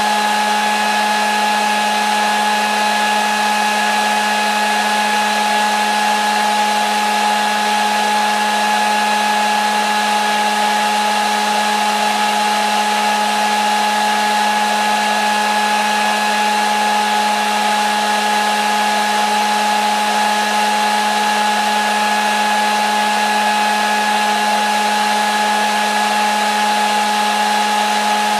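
Hair dryer running steadily: a continuous whooshing blow with a steady motor whine, unchanging throughout.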